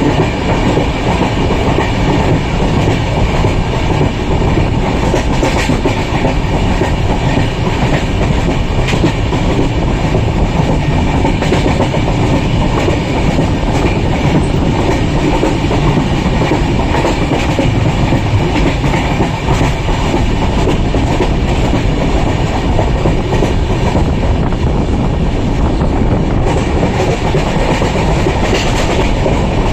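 Passenger train running steadily, heard from on board: a continuous rumble of wheels on rails with irregular clickety-clack as the wheels pass over rail joints.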